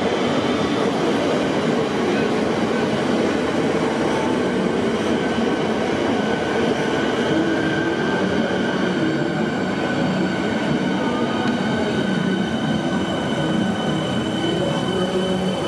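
Metro Trains Melbourne electric suburban train running along the far platform track: steady, loud wheel-and-motor noise with a high, thin held squeal above it.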